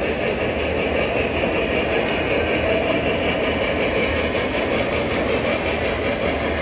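Model train running along its track, a steady rolling noise with no change in speed.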